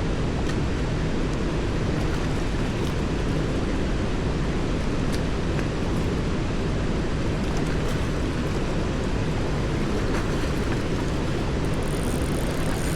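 Steady rushing noise, heaviest in the low end, with a few faint clicks scattered through it.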